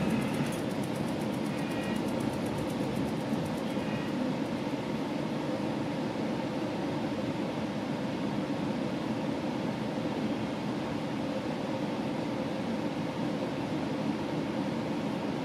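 GO Transit commuter train heard from aboard while running along the line: a steady rumble of wheels on the rails and running gear. A couple of brief, faint high tones sound in the first few seconds.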